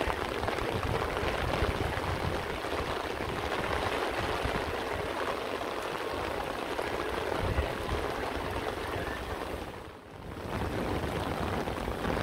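Rain falling steadily on flooded paving and standing water, an even hiss of water noise. The sound dips away briefly about ten seconds in, then returns.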